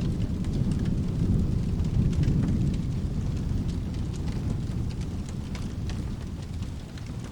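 Low rolling thunder that swells over the first few seconds and then slowly fades, over steady rain, with scattered sharp crackles of a wood fire.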